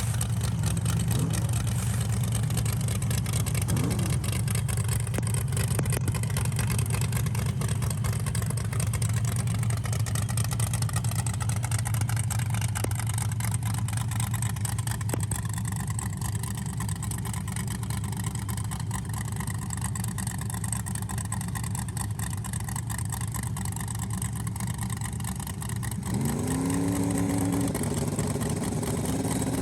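Drag-racing truck engine running at a steady idle with a deep, even rumble. Near the end it revs up twice, the pitch rising each time.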